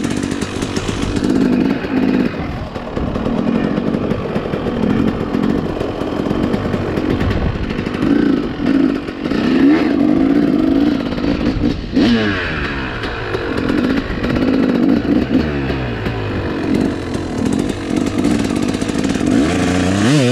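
Dirt bike engine running as it is ridden, revving up and down.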